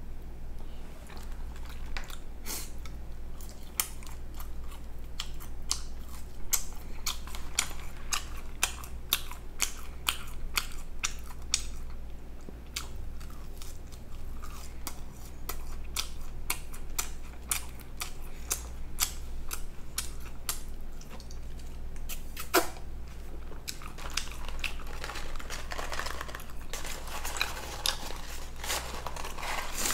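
A person chewing and biting food close to the microphone: a dense run of wet mouth clicks and crunches, thinning briefly about halfway through.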